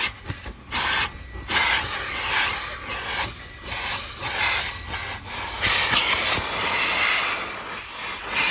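Car wash vacuum hose with a nozzle tool sucking air. The rushing hiss swells and drops irregularly, about once a second, as the nozzle works over the car's interior.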